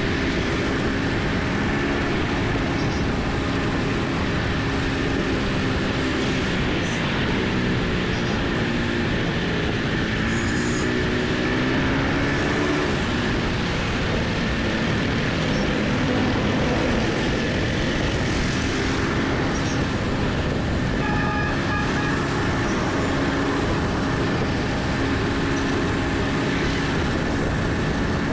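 Motorcycle engine running while riding, its pitch rising and falling with the throttle, under heavy wind rumble on the microphone and road traffic. A vehicle horn sounds briefly about three-quarters of the way through.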